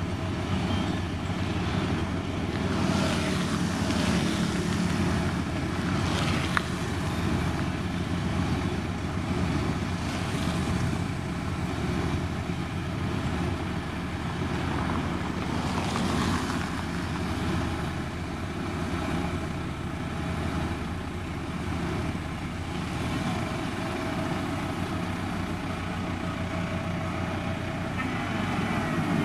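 Diesel engine of a SANY STG190C-8S motor grader running steadily under working load, swelling louder a few times, with one sharp click about six and a half seconds in.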